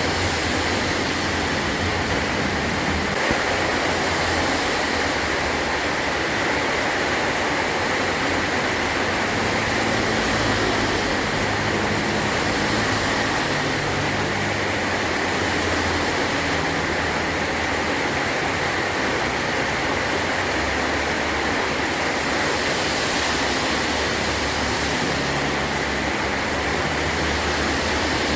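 Heavy rain drumming steadily on a metal tin roof, an even hiss, with a low rumble that comes and goes underneath.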